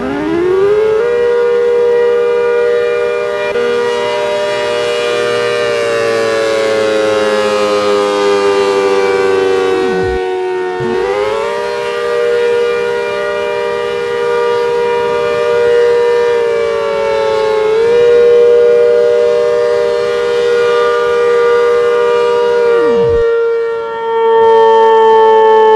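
ACA Hurricane civil defense siren sounding a loud, steady two-note tone. Its pitch slowly sags and comes back up about eleven seconds in and again a few seconds later.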